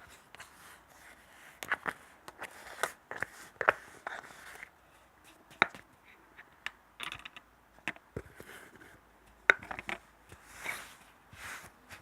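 Close-miked ASMR handling sounds: irregular sharp clicks and taps mixed with short scratchy rustles, spaced out with quiet gaps between them.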